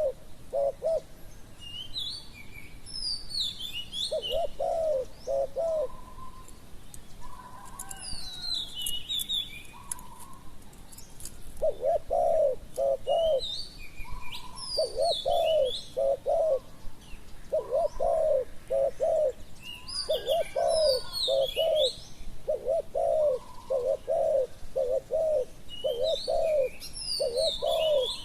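Spotted doves cooing: a low phrase of three or four coo notes repeated over and over, pausing briefly about a third of the way in and then going almost without break. Higher chirps and twitters of small birds come in short bursts over the top.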